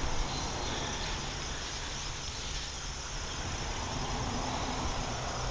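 Steady outdoor background: a faint, high insect drone over a low, even rumble.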